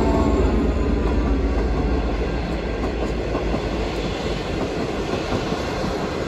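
V/Line locomotive-hauled passenger carriages rolling past with a steady wheel-on-rail rumble and clickety-clack. The tail of the locomotive's horn, falling in pitch, dies away in the first half second, and the low rumble eases off as the last carriages pass.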